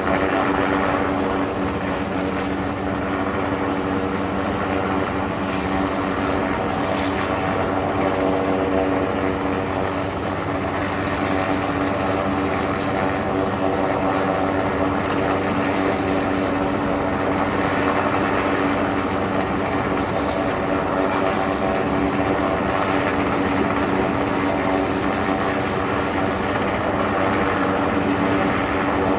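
Helicopter running steadily, a continuous drone of rotor and engine at an unchanging pitch with slight swells in loudness.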